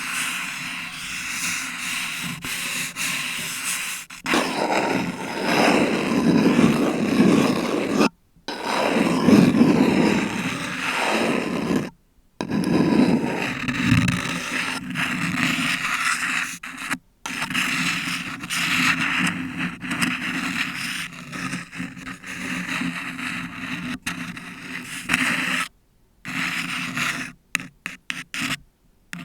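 Long artificial nails scratching and rubbing on a paper cup and a bare Blue Yeti microphone: a dense, continuous scratching, fuller from about four to thirteen seconds in. It cuts out abruptly to silence several times.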